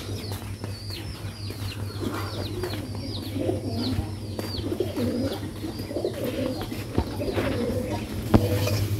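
Birds calling: a quick run of short, falling high chirps, about three a second, for the first half, with low cooing in the second half.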